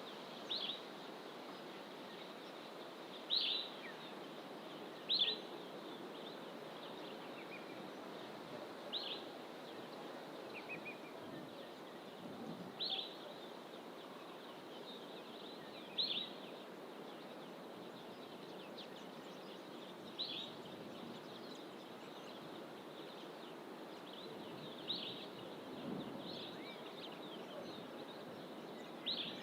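A wild bird in fynbos bush giving short, sharp high call notes, about ten of them at irregular gaps of a few seconds, over a steady background hiss.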